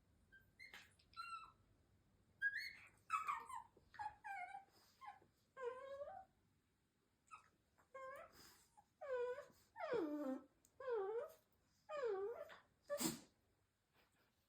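Shiba Inu dog 'talking': a string of about a dozen short calls in two runs with a pause between, many bending down and back up in pitch.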